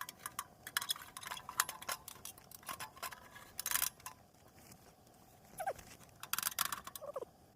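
Irregular clicking, knocking and rattling as fuel is pushed and worked into the firebox of a small steel camping stove, with two short squeaks near the end.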